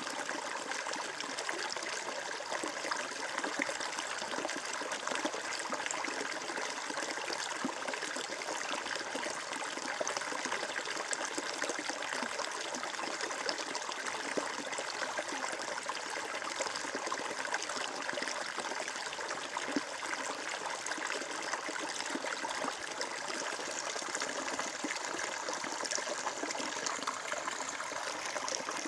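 Flowing water: a stream trickling and babbling steadily over stones.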